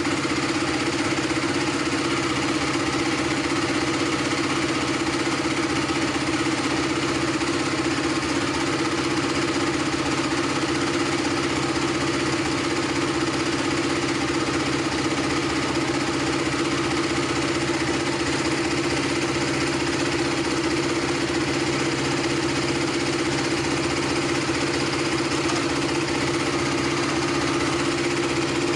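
KTM 390 Duke's single-cylinder four-stroke engine idling steadily at an even pitch, running cold just after its first start following months of winter storage at about 2 °C.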